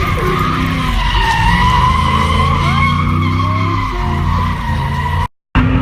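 Car tires squealing in a long steady screech under wheelspin, over the steady sound of the car's engine. The sound drops out for a moment near the end, leaving the engine alone afterwards.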